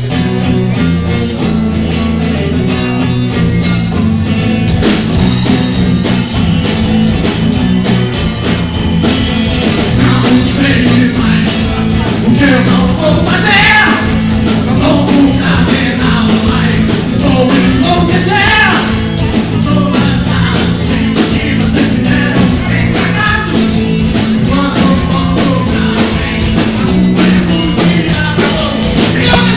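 A rock band playing electric guitar, bass and drum kit, with a lead vocal singing from about ten seconds in.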